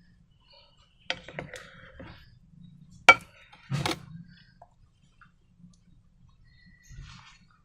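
Handling noises while making slime: a few sharp clinks and knocks, the loudest about three seconds in, then a softer scrape near the end.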